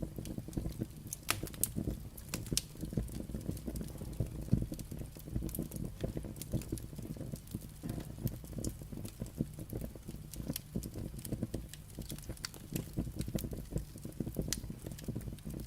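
Wood fire burning: logs crackling with frequent, irregular sharp pops over a low, steady rumble of flame.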